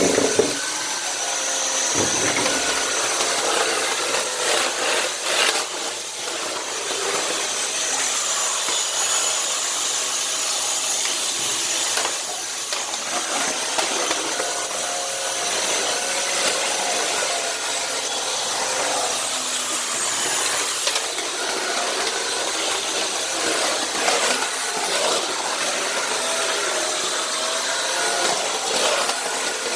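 Dyson Cinetic canister vacuum running with a steady high whine while its floor head rubs and scrapes across tile.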